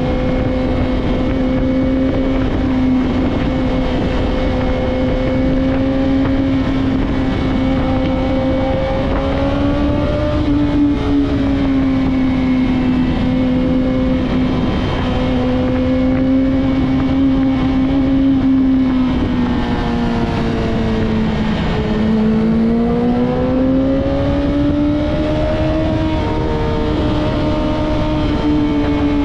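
Yamaha YZF-R6 inline-four engine through a Two Brothers full-system exhaust, running at steady, fairly high revs with small rises and falls; the note dips about twenty-two seconds in and climbs back. Wind rush runs underneath.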